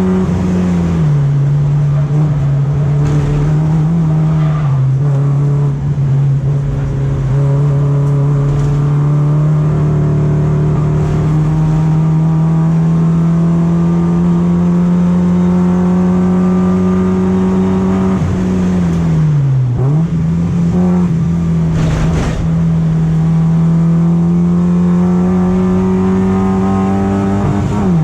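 BMW E36 race car engine running hard under load. Its note drops at upshifts, then holds and climbs slowly; about two-thirds through it dips as the throttle comes off and rises again. A sharp crack comes about three-quarters of the way through. The car is on test for a misfire and hesitation that the driver puts down to fuel supply.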